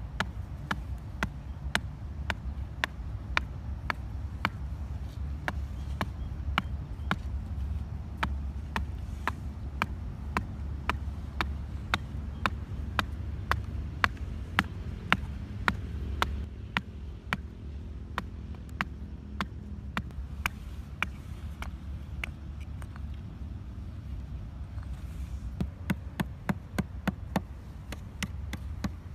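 Close-up eating of oysters: a steady run of sharp, wet mouth clicks, about two or three a second, over a low hum.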